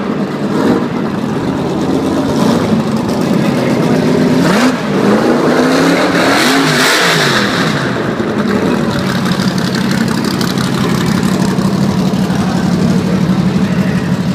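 Mercury Comet gasser's 289 cubic-inch V8 blipped several times in the middle, its pitch rising and falling, then settling into a steady idle.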